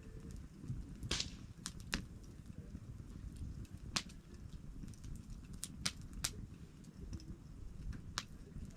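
Wood campfire burning, a low steady rush of flame with sharp crackles and pops at irregular moments, about eight of them, a few close together around the middle.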